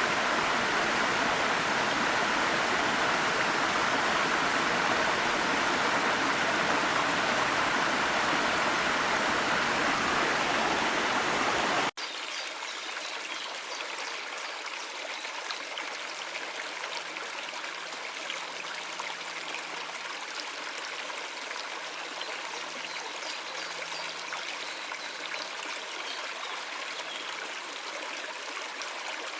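Small mountain waterfall and stream rushing steadily. About twelve seconds in, the sound cuts abruptly to a quieter, lighter trickle of a small stream.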